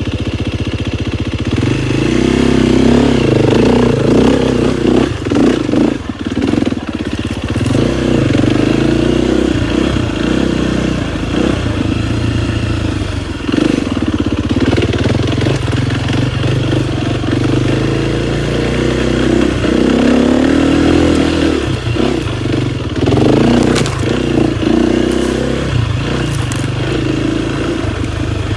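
KTM 250 XCF-W dirt bike's four-stroke single-cylinder engine, running low at first and then revving up and down repeatedly from about two seconds in as the bike is ridden.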